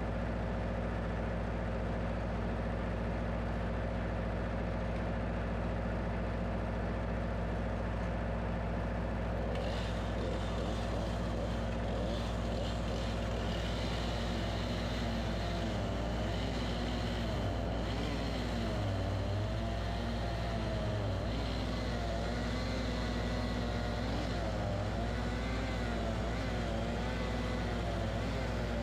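Engine of a Wood-Mizer LX25 bandsaw sawmill running steadily; a higher whine joins about ten seconds in, and the pitch wavers up and down in the second half.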